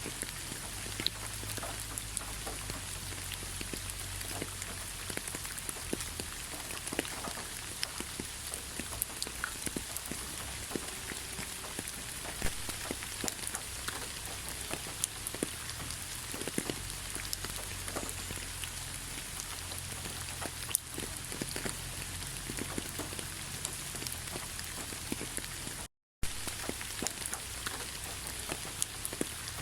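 Steady rain, an even hiss full of many separate drop ticks. It cuts out to silence for a split second near the end, then resumes.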